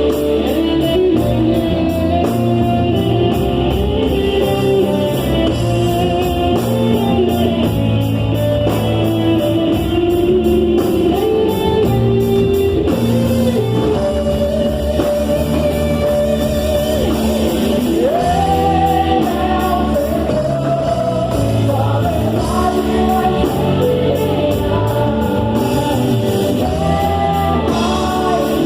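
Live gospel worship music: voices singing a melody over a band with guitar and a steady beat, in a large hall.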